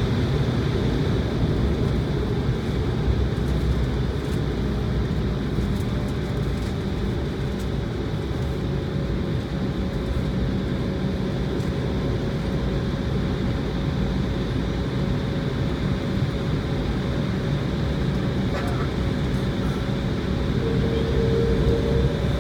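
Steady cabin noise of an Embraer jet airliner taxiing before takeoff: the engines running at low thrust under a dense low rumble, with a faint steady tone above it.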